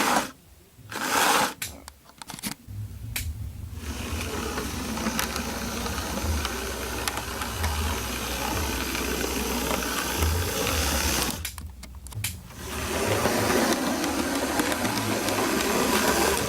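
A Bachmann model train running along its track, its small electric motor buzzing steadily with the wheels rattling over the rails. It starts about two and a half seconds in and drops out briefly near the two-thirds mark before running on.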